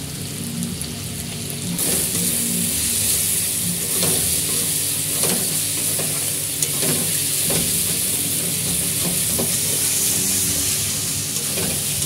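Onion, garlic and tomato masala sizzling in mustard oil in a metal kadai, while a metal spatula stirs it and scrapes the pan every second or so. The sizzle gets louder about two seconds in. This is the masala being fried down (koshano) before the spices go in.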